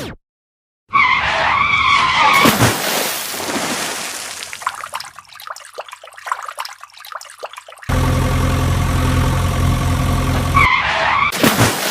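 Vehicle sound effects: a wavering tyre squeal about a second in, a stretch of crackling noise, then a steady engine hum for about three seconds, and a second short squeal near the end.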